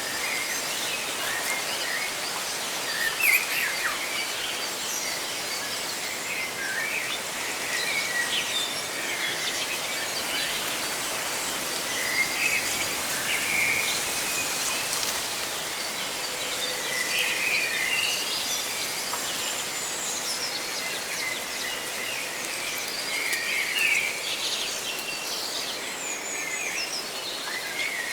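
Leaves rustling in a steady hiss, with many birds chirping in short, scattered calls throughout.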